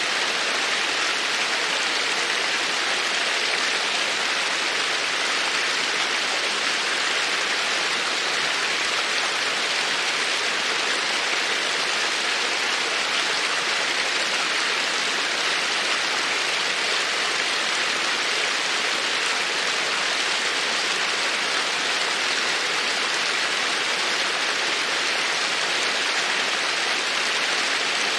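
Babbling creek: a steady rush of flowing water that stays even throughout.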